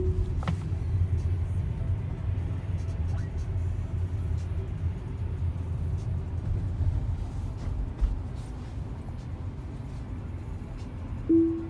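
Steady low rumble of a car driving in traffic, the road and tyre noise heard inside the cabin. Near the end, a short single-pitched tone sounds once.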